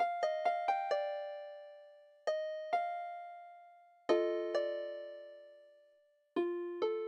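Solo instrumental music with a piano-like tone: a quick run of five notes, a pause, two more notes, then lower notes sounding together about four seconds in, and two more near the end, each struck and left to ring and fade.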